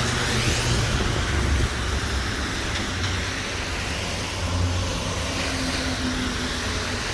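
Road traffic: a steady rumble of passing vehicles, easing slightly about two seconds in.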